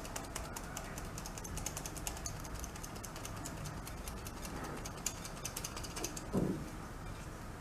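Flour sifter sifting flour and cocoa powder, making a rapid run of light clicks that thins out about six seconds in. A soft thump follows soon after.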